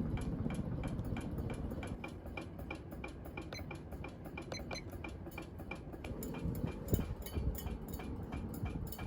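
Hunter Millennium ceiling fan running with a rapid, even ticking, about five ticks a second, over a low rush of air. The fan wobbles violently, which the owner suspects comes from one blade weighing differently from the others.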